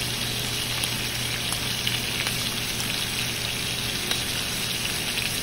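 Beef short ribs sizzling in hot fat in a frying pan as they brown: a steady frying hiss with small scattered pops.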